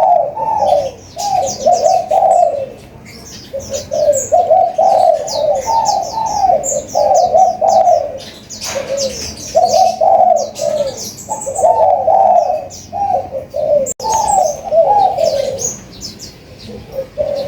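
Spotted doves cooing in repeated phrases of low, arched notes, over high, rapid chirping from small birds such as sunbirds.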